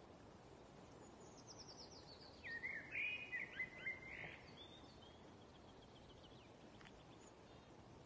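A songbird sings one phrase, starting about a second in and lasting around five seconds: a fast trill falling in pitch, louder chirps in the middle, then a quieter trill. A faint steady background hiss runs under it.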